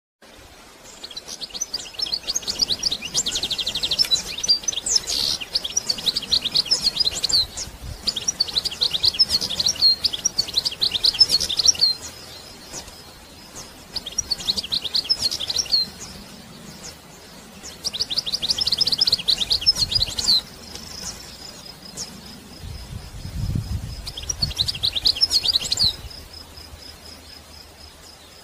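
Birds singing: repeated runs of rapid high chirps, each run lasting one to four seconds with short quieter pauses between them. A faint thin steady high tone runs under the later part.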